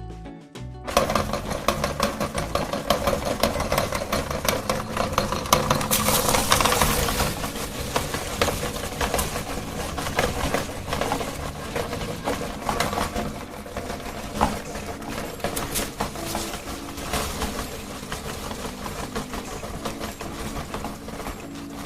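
Meat grinder running and crunching ice cream cones through its auger, a steady motor sound full of crackling clicks that starts about a second in.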